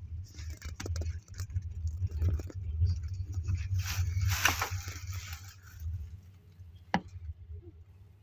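Inside a moving double-decker passenger coach: a steady low rumble with scattered rattles and scrapes, and one sharp knock about seven seconds in.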